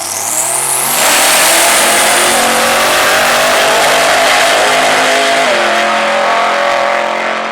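Twin-turbo Holden Commodore drag car at full throttle: a high whine climbs in pitch, then the car launches about a second in and runs loud and hard, its engine note stepping down once about five and a half seconds in.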